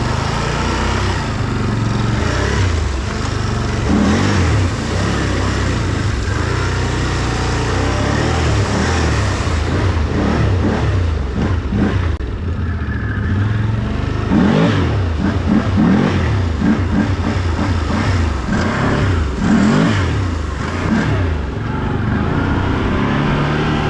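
Can-Am off-road vehicle's engine running as it is ridden, revving up and falling back several times in the second half.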